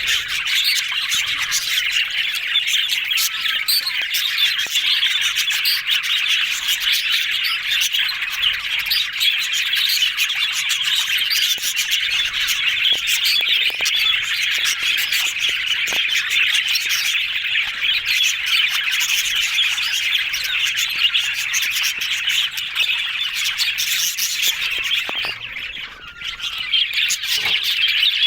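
Budgerigars chattering and chirping in a dense, continuous stream of happy warbling, with a brief lull near the end.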